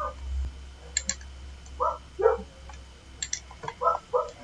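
Computer mouse and keyboard clicking, several sharp clicks, some in quick pairs. A small dog yips a few times in the background.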